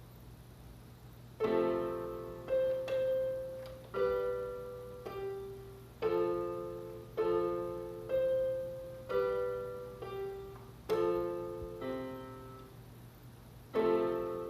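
Piano played slowly, with a pause of about a second and a half before the first notes. After that, notes or chords are struck about once a second and each is left to ring and fade. A low steady hum runs underneath.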